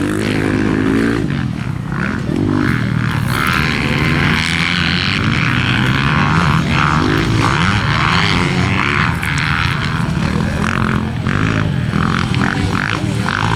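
Motocross dirt bike engines racing, their pitch rising and falling repeatedly as several bikes rev through the track.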